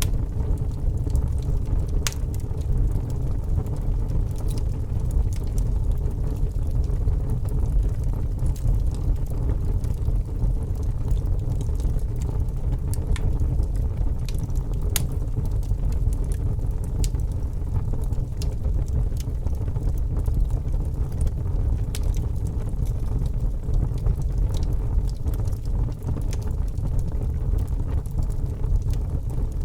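Wood logs burning in a fireplace: a steady low rumble of the fire with scattered sharp crackles and pops, a few louder ones standing out.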